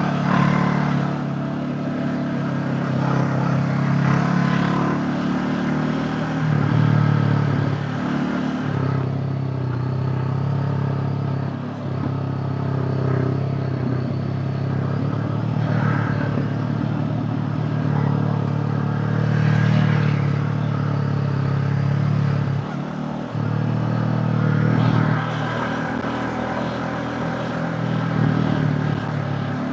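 Honda CB500X parallel-twin engine running on the move, its note rising and dropping a few times as the throttle and gears change.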